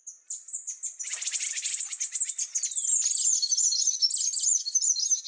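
Birdsong from several small birds chirping and warbling in quick, high notes. A few scattered chirps come first, and a dense chorus builds from about a second in.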